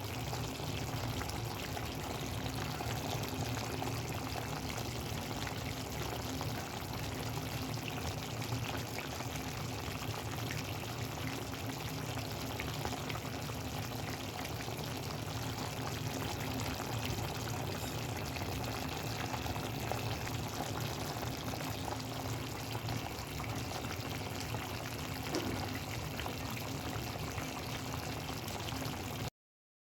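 A chicken tagine with potatoes simmering in its pot: a steady liquid simmering noise that cuts off suddenly near the end.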